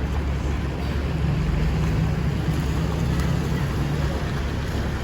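Low, steady rumble of a vehicle engine and road traffic with wind buffeting the microphone; a steadier engine hum comes up about a second in and fades about a second before the end.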